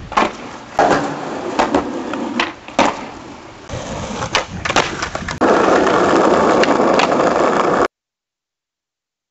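Skateboard wheels rolling on pavement with several sharp clacks of the board hitting the ground, then a loud steady roll that cuts off suddenly, followed by silence.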